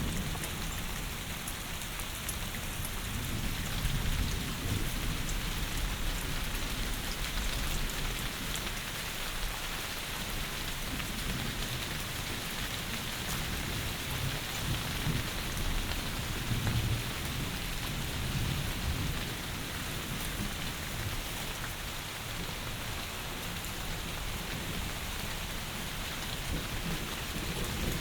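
Heavy rain pouring steadily, with low rumbling swells a few times underneath.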